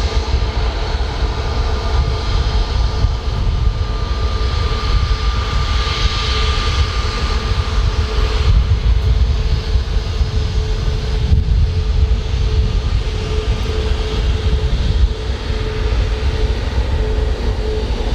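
Airbus A321neo's turbofans running at low thrust as the jet lines up on the runway: a steady whine over a low rumble.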